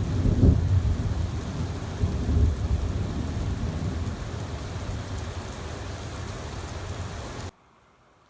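Thunderstorm: heavy rain falling steadily while thunder rumbles, loudest about half a second in and again about two seconds in, then fading. The sound cuts off abruptly near the end.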